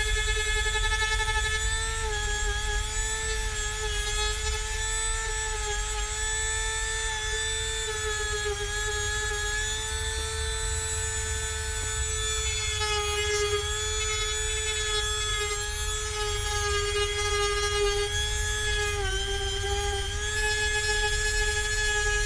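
Handheld rotary tool with a diamond disc, a WEN Dremel-style tool, running at high speed as it grinds down high points of cured silicone. A steady high whine that dips slightly in pitch a few times as the disc is pressed into the work.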